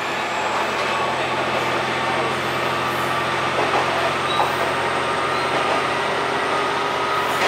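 Diesel railcar running along the line, heard from inside the front of the car: a steady engine drone over the noise of wheels on rail.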